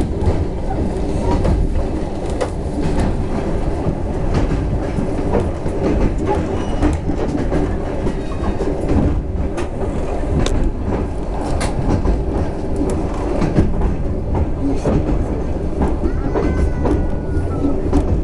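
Passenger train running along the line, heard from inside the carriage: a steady low rumble with the wheels clicking over the rail joints. A brief faint high squeal comes near the end.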